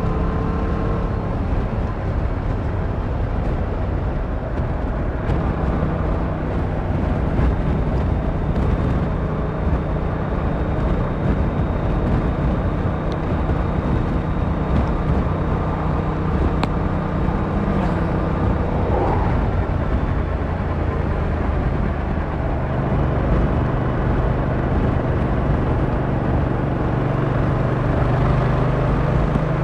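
Yamaha MT-07's 689cc inline-twin engine running as the bike rides along, with steady wind and road noise. The engine note changes pitch a couple of times, about a fifth of the way in and again about three quarters of the way through.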